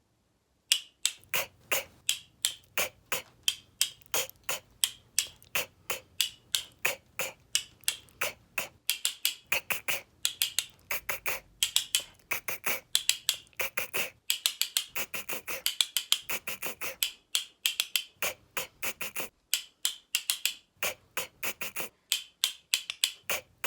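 A voice repeating the hard 'c' sound, /k/, of the letter C over and over in short, sharp bursts, about two or three a second, with brief pauses between runs.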